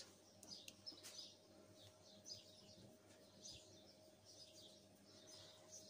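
Near silence, with faint small-bird chirps coming every half second or so and a faint steady hum.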